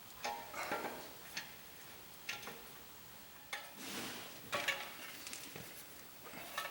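Intermittent light metal clanks and clinks, some with a short ring, as steel parts and tools are handled while fitting an engine into a car frame. There are about eight knocks, scattered and irregular, with a small cluster a little past halfway.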